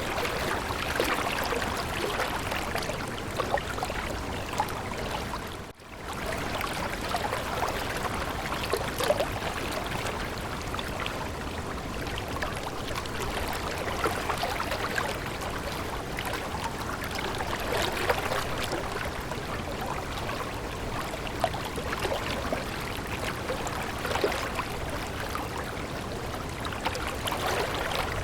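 Water flowing in a stream, a steady babble and trickle full of small splashes. The sound dips out briefly about six seconds in.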